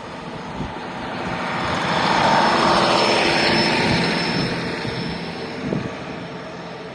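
KiHa 40 series diesel railcar pulling out under power, its diesel engine growing louder as it passes, loudest about two to four seconds in, then fading away. A few sharp knocks from the wheels sound along the way.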